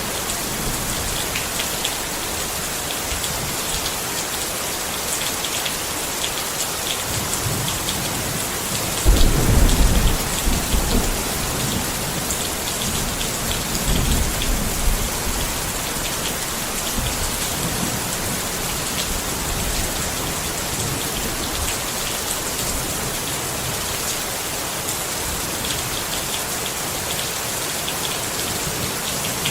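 Steady rain falling on a tent, with raindrops pattering evenly. A low rumble of thunder swells about nine seconds in, the loudest moment, and comes again more weakly a few seconds later.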